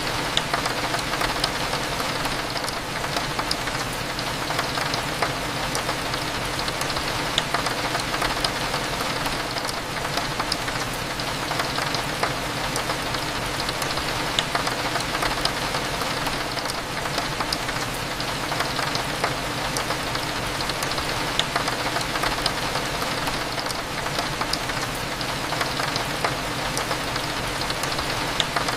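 Steady rain falling against a window, with many small drop ticks over a low, even hum of cafe background.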